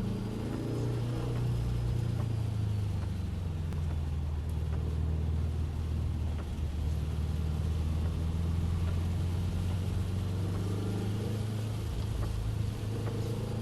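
Car engine heard from inside the cabin while lapping a wet race track. Its note drops in the first couple of seconds, holds steady, then climbs again near the end as the car accelerates.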